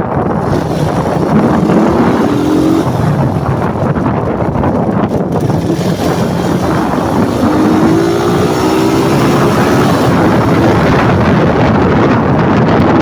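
Motorcycle being ridden, with heavy wind rush on the microphone over the engine; the engine note climbs in pitch twice as the bike accelerates, about a second in and again from about seven to ten seconds in.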